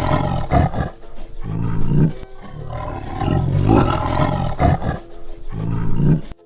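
A tiger roaring repeatedly: several long, deep, rumbling roars one after another, cutting off suddenly near the end.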